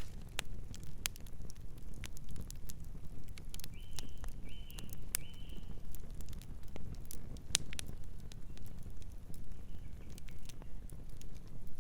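Campfire crackling, with sharp pops scattered irregularly over a steady low rumble. A bird calls three short notes in a row about four seconds in, and once more faintly near the end.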